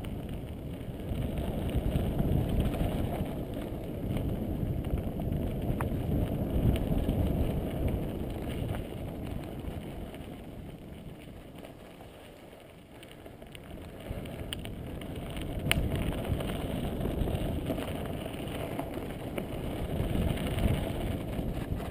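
A mountain bike rolling over dirt singletrack: tyre rumble and wind buffeting the microphone, with scattered rattles and clicks from the bike. The noise eases off around the middle and builds again after that.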